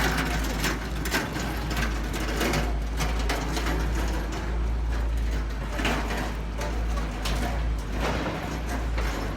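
A steady low rumble with mechanical rattling and repeated clanks.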